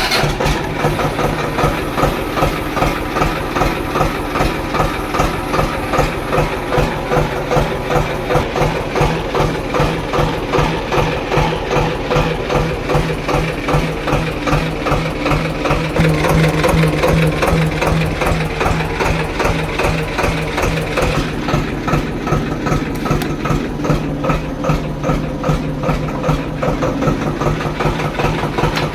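Swaraj 724 XM Orchard tractor's two-cylinder diesel engine idling right after a start from long standing, with an even pulsing beat. It runs a little louder for a few seconds about halfway through.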